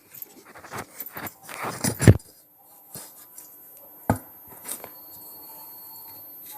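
Crunchy cheese-pizza corn snack crunching and crackling: a run of sharp crunches in the first two seconds, the loudest near the end of that run, and one more sharp crack about four seconds in.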